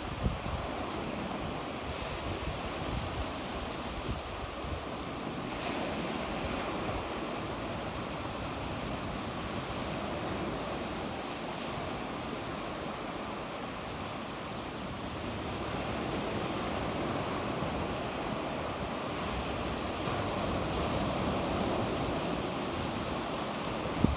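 Sea waves washing onto the shore in slow, steady surges, with some wind on the microphone and a few brief low thumps of wind buffeting.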